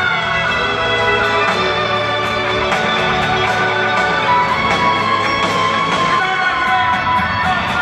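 Live band music at a concert: long held notes over a steady drum beat.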